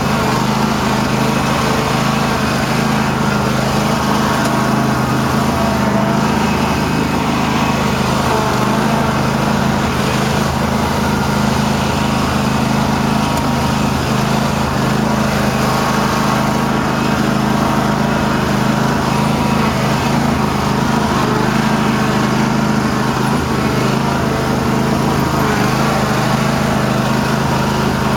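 Cub Cadet garden tractor engine running steadily at a constant pitch.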